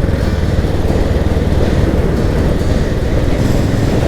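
Motorcycle running steadily at road speed, its engine blended with a steady rush of wind and road noise.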